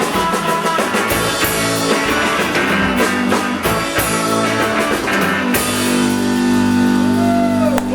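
Live rock band playing an instrumental passage with electric guitars and drum kit; the drums stop about two-thirds of the way through and the band holds a final sustained chord.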